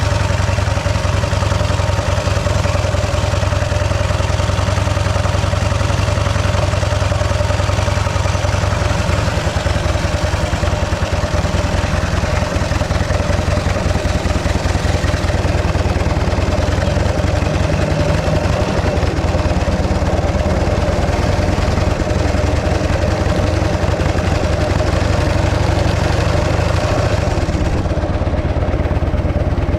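The 650cc JAP V-twin engine of a 1915 Arcade motorcycle running steadily at an even pace.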